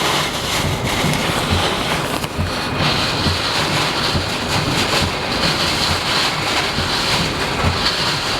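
Hurricane-force eyewall wind and driving rain in a steady, loud rush, with irregular low thuds of gusts buffeting the microphone.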